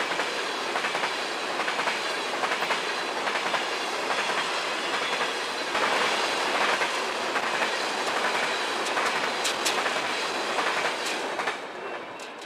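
Freight train cars rolling past, with the wheels clicking over the rail joints. Near the end the last car passes and the sound drops away.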